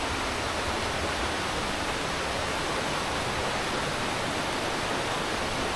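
Steady rush of a waterfall running heavy and rough after rain.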